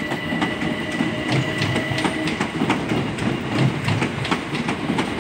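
Southern electric multiple-unit passenger train running over the tracks and points, its wheels clicking over the rail joints several times a second, with a thin steady whine over the first two seconds.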